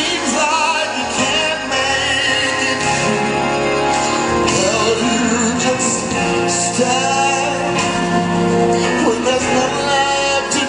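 Recorded gospel song: a singer holds long, wavering notes over instrumental backing.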